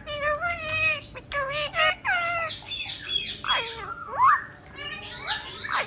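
Parrot vocalizing in a string of high, pitch-gliding calls and chatter, with the loudest call about four seconds in.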